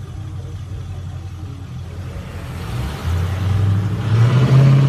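1996 Chevrolet Impala SS's 5.7-litre LT1 V8 rumbling as the car pulls away and accelerates, its low note getting louder about three seconds in and rising in pitch near the end. A passing car's road noise swells over it near the end.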